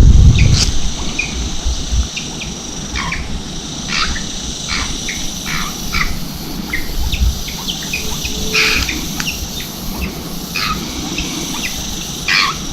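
Birds chirping, many short calls scattered throughout, over a steady high insect buzz. A low rumble dies away in the first second.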